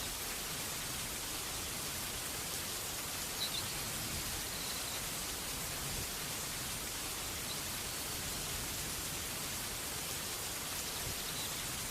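Steady rain falling, an even hiss with no breaks. A few faint high chirps sound through it.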